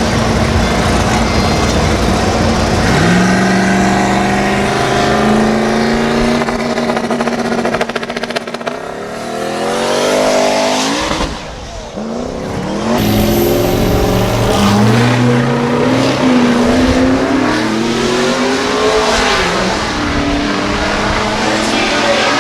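Performance truck engines running at a drag strip: a steady tone at first, then revved up and down again and again, the pitch climbing and falling, with a brief drop in loudness near the middle.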